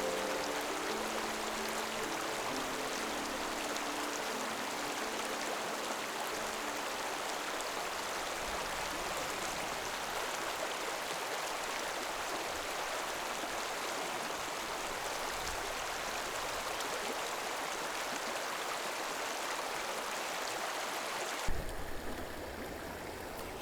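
Small mountain stream running over its bed, a steady, even rush of water. About twenty seconds in the sound changes abruptly with a short knock.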